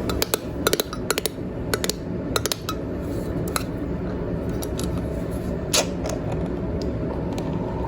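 Kitchen items being handled: a series of short, sharp clicks and clinks at irregular intervals, thickest in the first three seconds, with one more near the middle, over a steady low hum.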